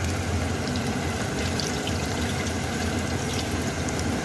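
Tempura-battered chicken pieces frying in hot oil: a steady sizzle with small scattered crackles, over a low steady hum.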